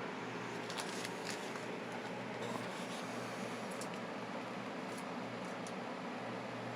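Steady low electrical or fan hum with background hiss, broken by a few faint, scattered clicks.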